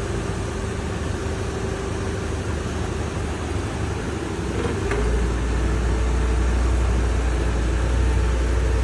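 Engine of the machine lifting the Cummins engine out, running steadily with a constant whine; about five seconds in a deeper, heavier rumble comes in and holds.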